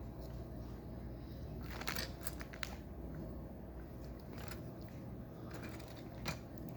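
Lego pieces being handled during building: scattered small plastic clicks and rattles, in a cluster about two seconds in and again near the end, over a low steady room hum.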